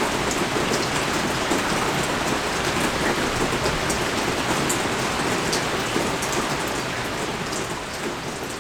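Steady heavy rain falling on surfaces, an even hiss with scattered individual drop ticks, fading away near the end.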